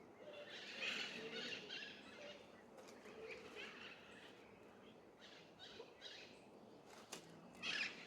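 Faint bird calls and chirps coming in bursts, with a couple of sharp clicks about seven seconds in.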